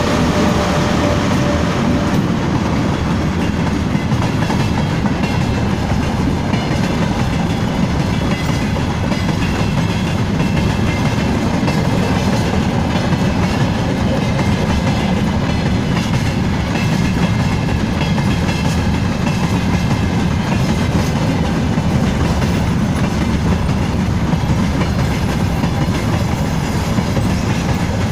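Freight train rolling past steadily, the wagons' wheels clattering over the rail joints.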